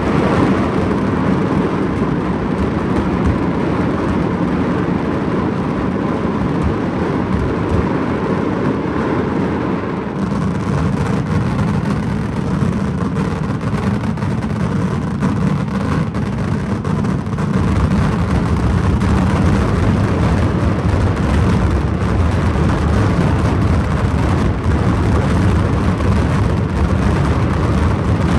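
Daytime fireworks barrage: rapid overlapping bursts and crackle merging into a continuous rumble, which grows heavier about seventeen seconds in.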